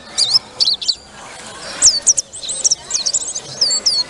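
Buxtoni white-eye (pleci) singing loudly: a fast run of high chirps and twittering whistles, many of them quick sweeps up or down in pitch, with barely a pause.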